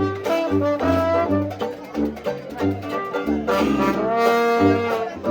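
Traditional New Orleans jazz band playing an instrumental chorus: trombone and trumpet lines over a tuba bass walking at about two notes a second, with light rhythm clicks underneath.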